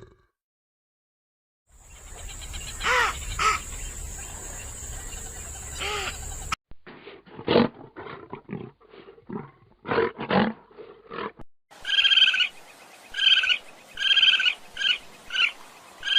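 Wild animal calls from several short clips: roar-like calls, then a run of short loud calls, then short calls repeated about twice a second near the end.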